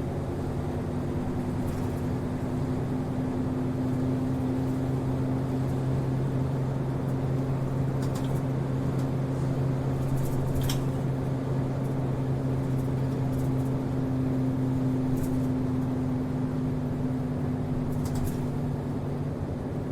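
Inside the cabin of a city route bus under way: the engine runs at a steady pitch under continuous road noise, with a few brief high-pitched rattles.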